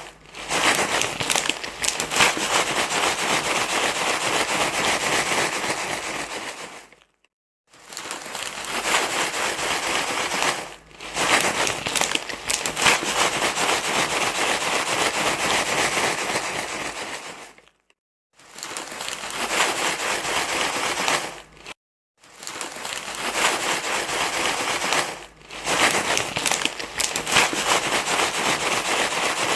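Continuous crinkling and rustling, like a thin wrapper being crumpled, dense and crackly. It comes in long stretches cut by a few short gaps of near silence, the longest just under a second.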